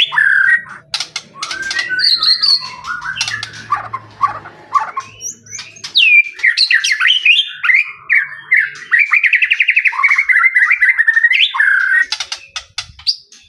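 White-rumped shama (murai batu) singing a long, varied song of rapid trills, whistled notes and harsh squawky phrases. Runs of sharp clicking notes come about a second in and again near the end.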